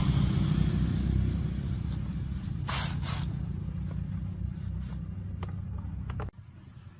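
A small engine running with a low pulsing beat, easing down, then stopping abruptly near the end, with a brief scrape about three seconds in.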